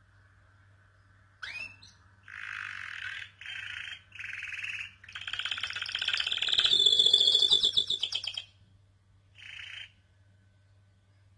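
Domestic canary singing: a rising note, then a string of fast trilled phrases building to a loud, rapidly pulsed roll about two-thirds of the way through, and one short trill before it falls silent. A faint steady low hum sits underneath.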